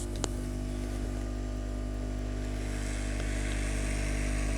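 Hot air SMD rework station and smoke absorber running: a steady mechanical hum with a rush of air that grows louder from about halfway through, as the hot air gun blows.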